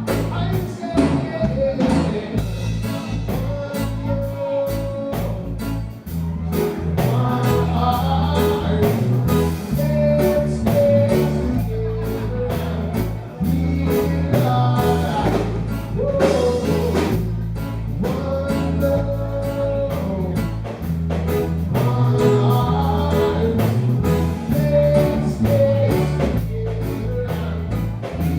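Live reggae band playing with singing, guitar and a steady bass line and beat.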